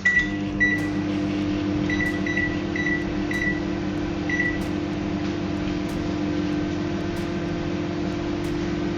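Microwave oven started: a thump as the door shuts, about seven short keypad beeps over the first four and a half seconds as the time is set, and the oven running with a steady hum, steaming a baby-bottle steam sterilizer.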